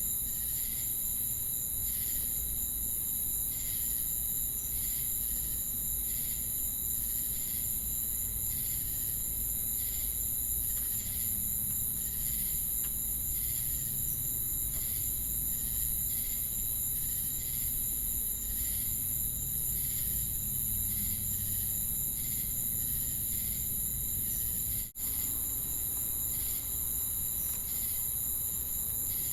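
Crickets and cicadas singing together: a dense, steady, high-pitched trill over a steady lower tone, with a chirp pulsing a little faster than once a second. The sound cuts out for a split second near the end.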